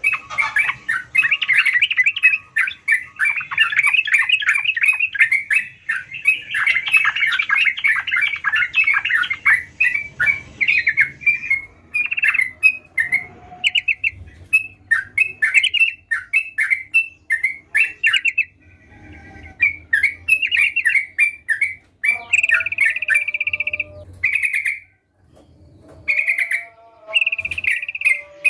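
Yellow-vented bulbul (trucukan) singing hard: a dense, rapid run of chirping notes for about the first ten seconds, then separate short phrases with brief pauses between them, ending with a few longer held notes.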